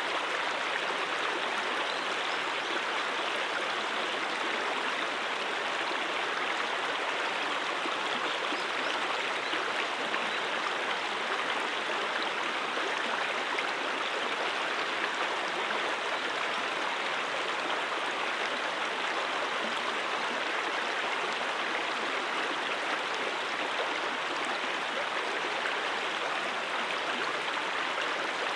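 A mountain stream running over rocks: steady rushing and gurgling water with no breaks.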